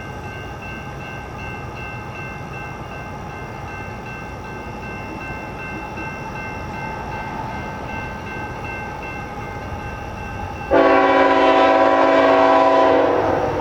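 A CN freight train's locomotives approach with a steady low rumble. About three-quarters of the way in, the lead locomotive's air horn begins a loud, sudden, sustained blast, which starts to fade near the end.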